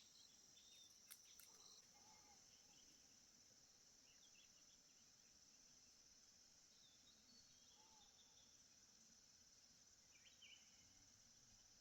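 Faint, steady insect chorus, a continuous high trill of crickets, with a few brief faint chirps and a sharp click about a second in.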